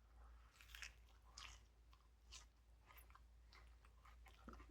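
Faint, irregular chewing of a mouthful of a turkey, ham and stuffing sub with salad, with soft crunches.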